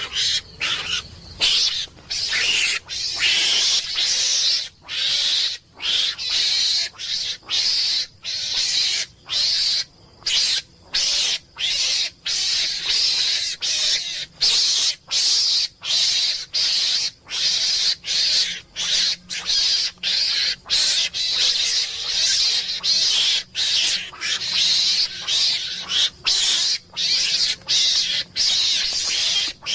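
An animal giving harsh hissing calls over and over, each a short burst of about half a second to a second with brief gaps between, on and on without letup.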